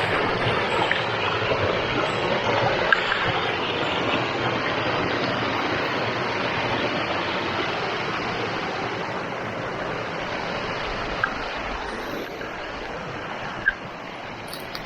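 Rushing stream water: a steady rush that slowly fades.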